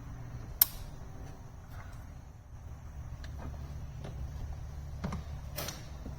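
Sharp clicks and taps of hand tools at work in a car's engine bay: one loud click a little over half a second in, a few faint ticks, and two more clicks near the end, over a steady low hum.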